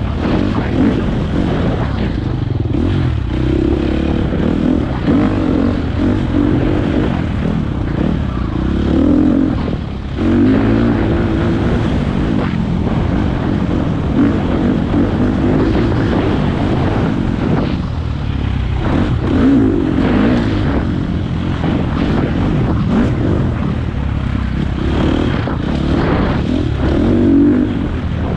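Four-stroke dirt bike engine running hard on the trail, its revs rising and falling as the rider works the throttle, with a brief dip about ten seconds in.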